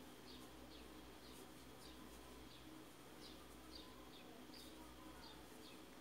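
Near silence, with faint short high chirps from a small bird repeating about twice a second over a low steady hum.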